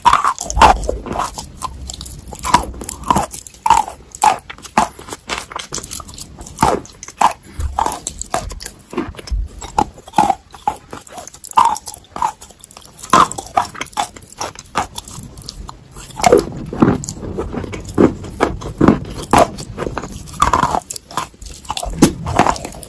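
Biting and chewing dry Ural clay close to the microphone: a long run of sharp, irregular crunches.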